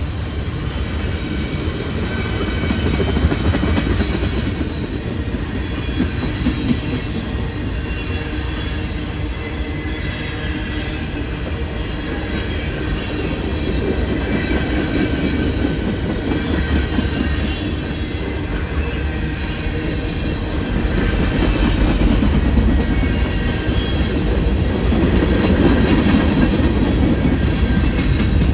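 Freight train cars rolling past steadily: a continuous low rumble of wheels on rail with faint, high wheel squeal over it, growing a little louder in the last third.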